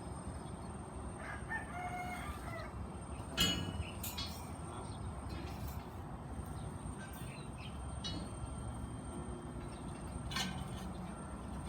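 A bird call a second or so in, over a steady background noise, with two sharp knocks: one about three seconds in and one near the end.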